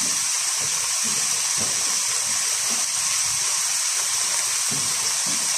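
Stir-fry vegetables (spring onion, celery, water chestnuts, carrot and green pepper) sizzling steadily in hot oil in a wok.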